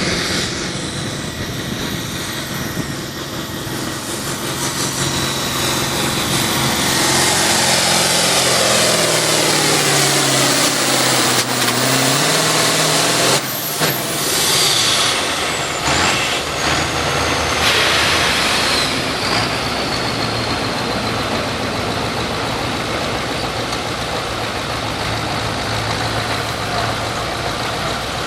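A competition pulling vehicle's engine running hard under load, its pitch sagging and then jumping up sharply about halfway, with a high whine that falls in pitch. It then settles into a steady low idle.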